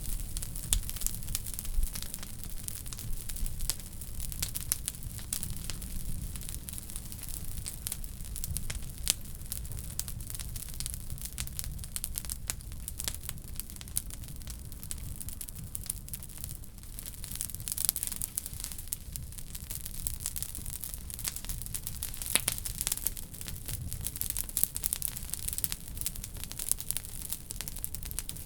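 Wood fire burning in a wood stove, crackling with frequent sharp snaps and pops over a low steady noise.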